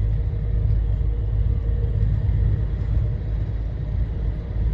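Steady low rumble of a heavy truck on the move, engine and road noise heard inside the cab, with a faint steady hum above it.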